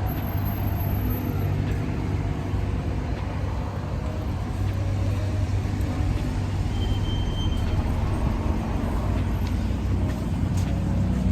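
Street traffic: motor vehicles running and passing, with a steady low engine hum throughout.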